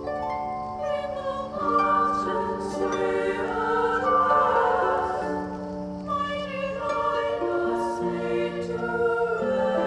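Soundtrack music: a choir holding wordless sustained chords that change every second or so.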